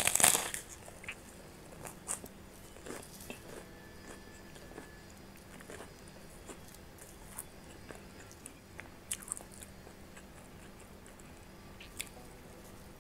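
A loud crunching bite into a kerupuk cracker in the first half second, then close-miked chewing with scattered small crunches.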